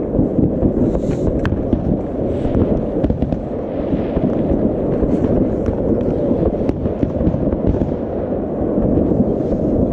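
Fireworks going off in a dense, continuous barrage: a steady low rumble with many sharp cracks and pops scattered through it.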